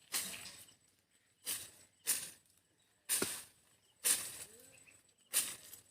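Repeated blows of a hand tool, six sharp strikes at an uneven pace of about one a second, each dying away quickly.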